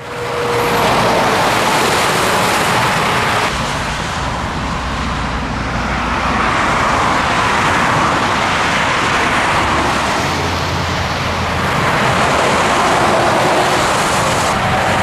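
Scania truck on the road: steady engine and tyre noise, easing a little a few seconds in and swelling again near the end.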